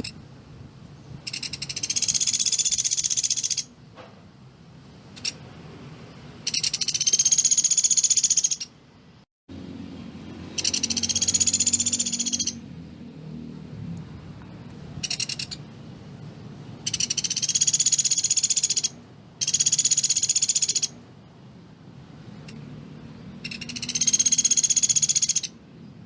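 Pelatuk beras woodpecker calling: six fast, high rattling trills of about two seconds each, with a couple of brief ones between, over a low steady hum.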